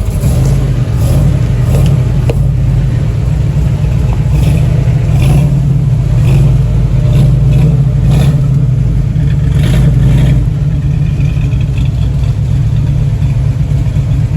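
502 cubic-inch big-block Chevrolet V8 in a 1969 Camaro running loud and steady as the car is driven at low speed.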